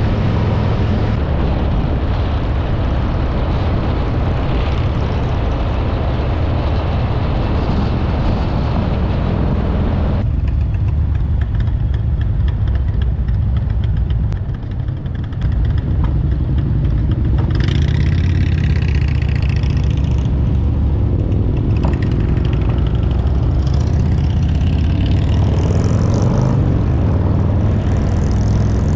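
Harley-Davidson V-twin motorcycle engine running under way, with wind rush over the helmet camera's microphone. The wind hiss drops off about a third of the way in, and the engine briefly falls away about halfway through before picking up again.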